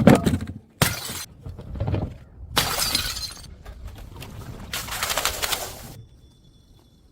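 Glass bottles shattering: about four loud crashes in a row, each starting and stopping suddenly, the last dying away about a second before the end.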